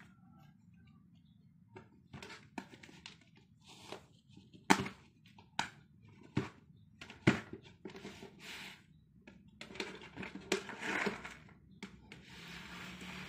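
A cat biting and knocking at a lidded snack jar: irregular sharp clacks and knocks, a few much louder than the rest, turning to a longer stretch of scraping and rustling near the end.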